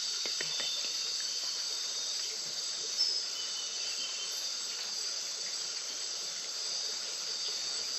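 Steady high-pitched chorus of rainforest crickets and other insects, with a brief chirp about three seconds in.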